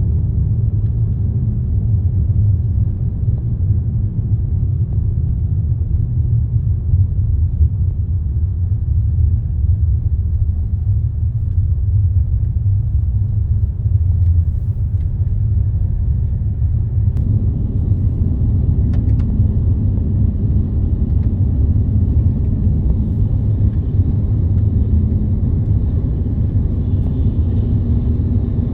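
Waterfall rushing, a steady low rumble of falling water.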